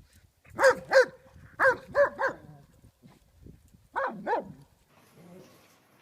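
A dog barking: seven short barks in three quick groups of two, three and two.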